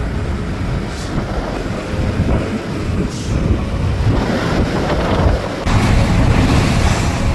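Storm wind rushing and buffeting the microphone in heavy gusts, getting louder about five and a half seconds in.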